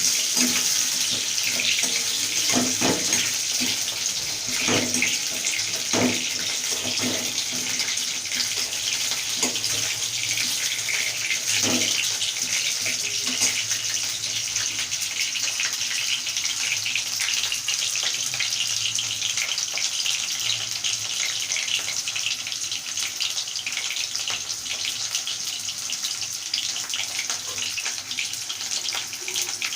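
Cut potatoes frying in hot oil in a kadai: a steady sizzle, with a few knocks against the pan in the first twelve seconds.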